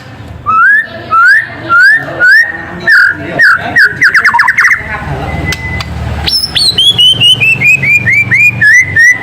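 White-rumped shama singing: a run of short, clear whistled notes each rising in pitch, about two a second, breaking into a quick trill, then a string of repeated notes that step down in pitch one after another.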